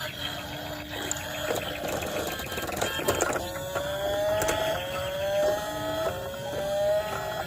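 Electronic toy sound effects: a buzzing rattle, then a repeated series of short rising tones about a second apart.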